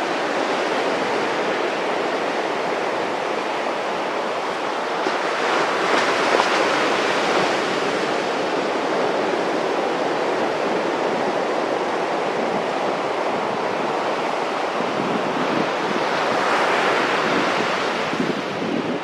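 Pacific Ocean surf breaking and washing up the beach in a steady rush, with louder swells of breaking waves about five seconds in and again near the end.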